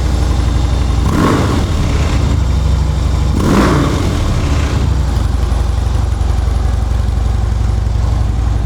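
2012 Harley-Davidson Electra Glide Police's V-twin engine running through its stock factory exhaust, which is not real loud. It is idling steadily, with two short rises in engine sound about a second in and three and a half seconds in.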